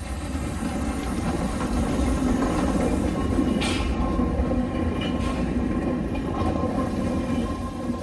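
A train running along the track. Its rumble grows louder over the first couple of seconds, then holds steady, with a few sharp clicks from the wheels.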